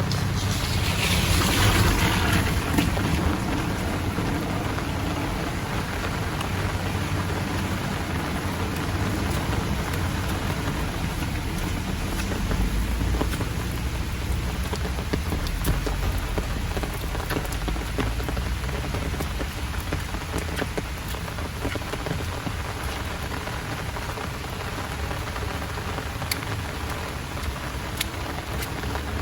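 Heavy rain falling steadily as a dense hiss, swelling louder for a couple of seconds about a second in, with a low rumble underneath.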